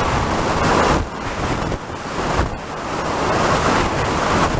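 Wind rushing into a full-face motorcycle helmet with the visor cracked open one click, buffeting the microphone behind the chin guard at around 50 to 60 mph. The loud rushing swells and dips unevenly.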